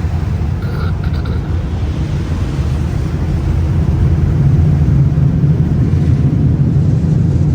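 Automatic car wash machinery running with a loud, steady low rumble that grows a little louder about four seconds in.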